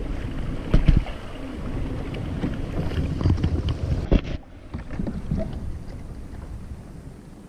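Wind buffeting the microphone, with sharp knocks about one second in and again about four seconds in, then settling quieter.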